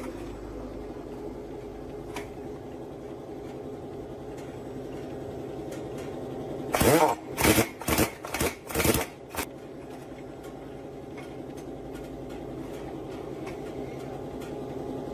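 A machine running with a steady hum. About seven seconds in, a quick run of about six loud knocks or clanks over two seconds.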